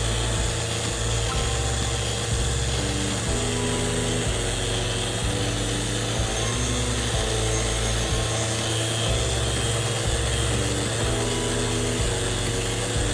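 An electric power tool runs steadily without letting up, a continuous whirring hum with a hiss over it, the kind of machine used to sand or polish a repaired countertop crack. A simple melody of short held notes plays underneath.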